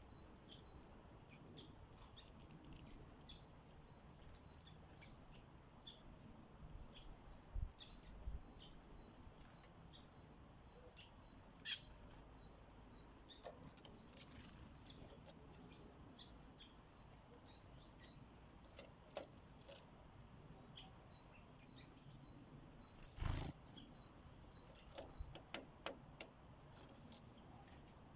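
Sparrows at a feeder giving short, faint, high chirps now and then. There is a sharp click about twelve seconds in and a louder thump about twenty-three seconds in.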